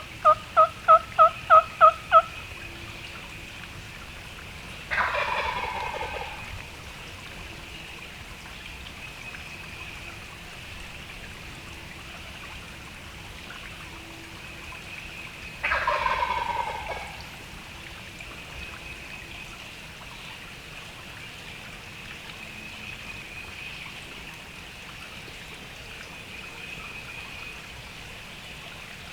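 Seven quick, loud, evenly spaced yelps on a turkey call, then a wild turkey gobbler gobbling twice, about ten seconds apart, in answer to the calling.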